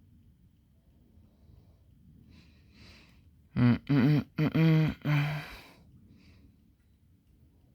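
A man's wordless vocal sounds: a breath about two and a half seconds in, then a few loud voiced sounds over about two seconds that bend in pitch, and a short breath after.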